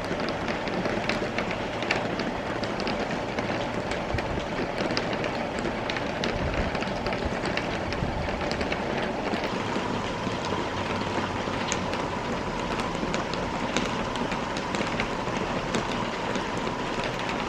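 Wet snow and rain falling steadily, a dense hiss of small drops and flakes pattering on surfaces, with a faint steady hum that grows a little about halfway through.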